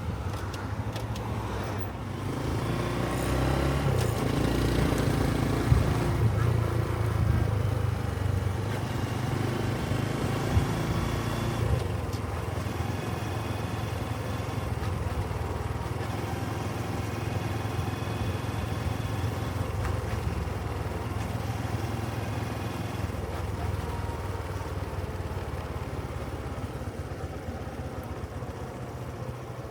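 Small single-cylinder Honda Cub 125 motorcycle engine running on the move, its note changing in steps during the first dozen seconds as it speeds up and shifts, then holding steadier.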